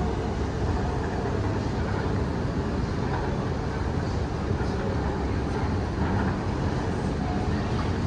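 Steady outdoor city ambience: an even low rumble of distant traffic with no distinct events.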